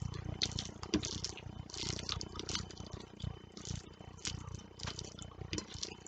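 Close-miked chewing and wet mouth sounds of someone eating fish curry and rice by hand: irregular smacks and clicks over a low rumble.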